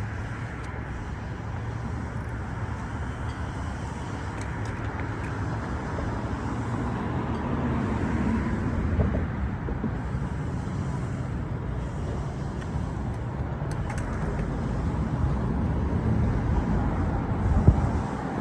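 Steady low rumbling background noise outdoors, slowly growing louder, with a brief louder knock near the end.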